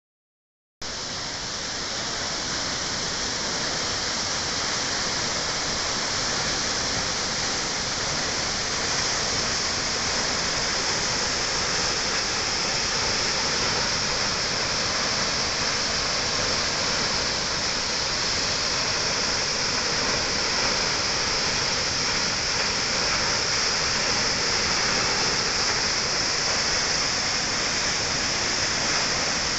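Kegon Falls, a large waterfall, giving a steady, unbroken rush of falling water that cuts in about a second in.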